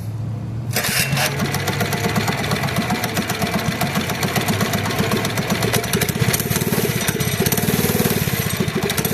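Mini bike's small engine running, low and steady at first, then louder about a second in, with a rapid, even beat of firing pulses.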